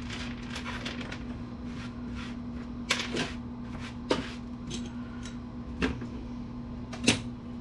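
Small salvaged computer parts and connectors being handled and set down, a few sharp clicks and clinks at uneven intervals. A steady low hum runs underneath.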